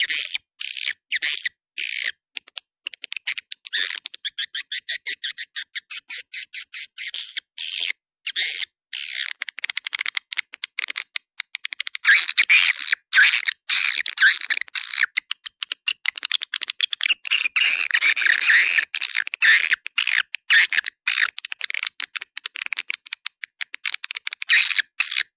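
Swiftlet calling recording, a lure sound for swiftlet houses: rapid high twittering chirps and clicks in quick succession, broken by short silent gaps. The calls grow denser and louder about halfway through.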